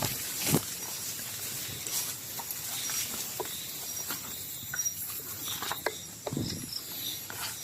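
Footsteps and rustling through forest leaf litter and undergrowth, with scattered snaps and a heavier step about six and a half seconds in, over night insects chirping.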